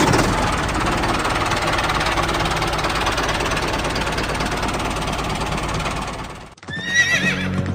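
Mini tractor running with a fast, steady rattling knock, cutting off abruptly near the end.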